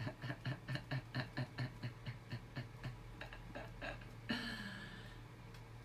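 Lovebirds giving a rapid run of short, clicking chirps, about six a second, that fade after about four seconds. Then one louder sound with a falling tone that trails away.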